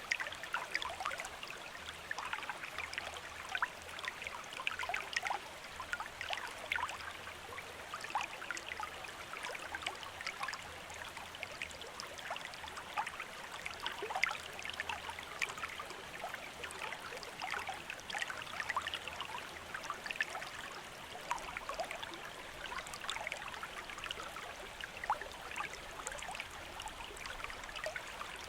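Small river or stream running, a steady babble of water with many small splashes and trickles.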